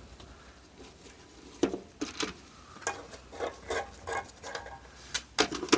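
Scattered light clicks and taps of small parts being handled, about a dozen at irregular intervals, more of them in the second half.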